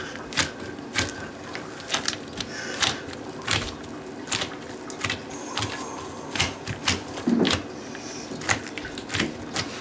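Irregular sharp clicks and light knocks, about one or two a second, of hand work on toilet parts.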